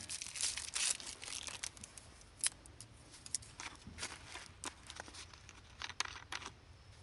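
Rustling and crinkling of something being handled, with several sharp clicks spread through.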